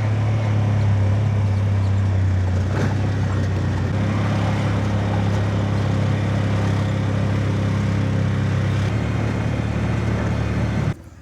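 A motor vehicle's engine running steadily with road noise, its low hum shifting slightly in pitch a couple of times, cutting off abruptly near the end.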